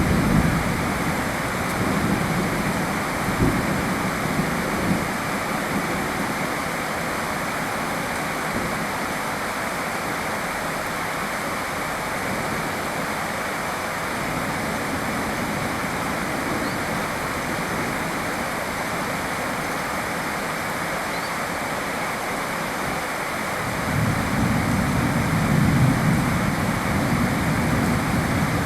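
Steady rain falling, an even hiss, with a low rumble fading in the first seconds and another low rumble setting in near the end.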